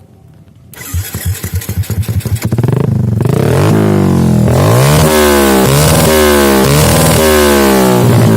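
Yamaha Jupiter MX single-cylinder four-stroke engine breathing through an RCB Racing aftermarket exhaust. It fires up about a second in, runs with distinct pulses, then is revved in repeated throttle blips, its pitch sweeping up and dropping back several times.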